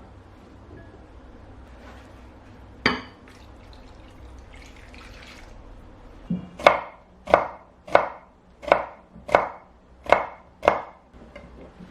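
Knife chopping food on a cutting board: one knock about three seconds in, then a run of about eight chops at a little under two a second.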